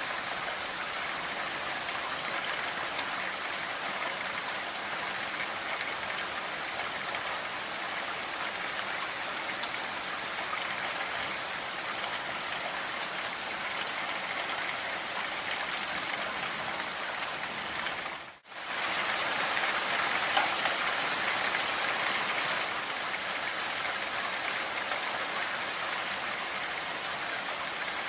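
Steady heavy rain, a dense even hiss of falling drops. About 18 seconds in, the sound drops out almost completely for a split second, like an edit or loop join, then comes back slightly louder for a few seconds.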